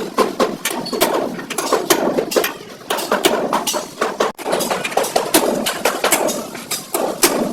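Repeated irregular hammer blows and taps on sheet-metal bodywork, a rapid uneven run of sharp metallic knocks.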